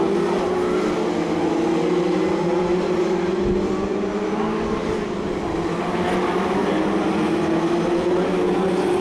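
BriSCA F2 stock car engines racing together, a loud, continuous, overlapping engine note whose pitch wavers slightly as the cars circulate.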